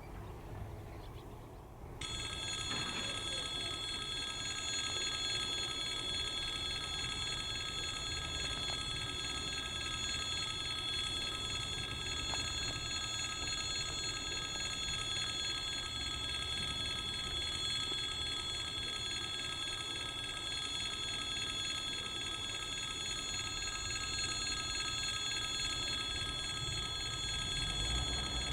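Level-crossing warning bell switching on about two seconds in and ringing steadily in a high, many-toned ring, with a low rumble underneath.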